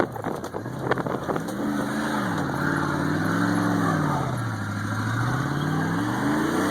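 Car engine revving up and down in about three slow swells, the throttle worked to drive the stuck car out of the mud, after a few sharp knocks in the first second or so.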